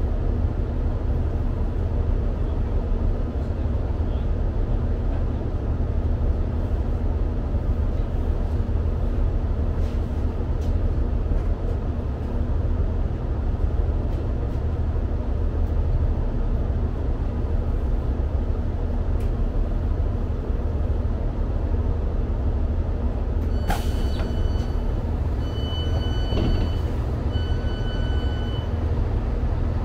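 Steady low rumble of a diesel multiple unit's engine and running gear heard inside the carriage as the train draws into the platform and stands. Near the end a sharp hiss is followed by a series of high electronic beeps from the door alarm as the doors are released.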